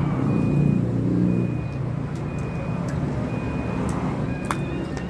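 A short high electronic beep repeating evenly about once a second over a steady low engine rumble, with a sharp click near the end.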